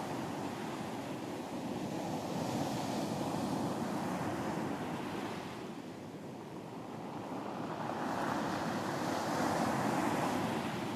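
Ocean surf breaking and washing up on a beach: a steady rushing that swells with two waves, with a lull between them in the middle.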